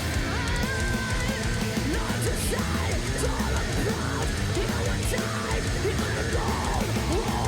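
A heavy metal band playing live at full volume, with a high note held through the first second or two.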